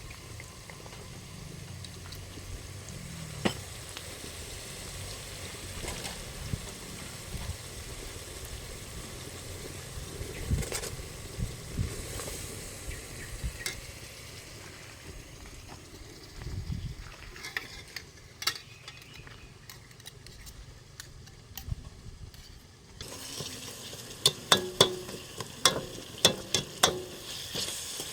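Food sizzling in a cooking pan while a utensil stirs it, with scattered clicks of the utensil on the pan. Near the end the sizzle turns brighter and the utensil clacks sharply and quickly against the pan.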